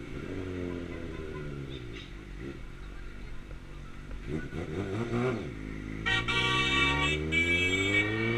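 2009 Suzuki GSX-R600's inline-four engine on the move: revs falling off, a quick blip about five seconds in, then climbing steadily in pitch as it accelerates. A high steady tone sounds over the engine for about two seconds near the end, broken once.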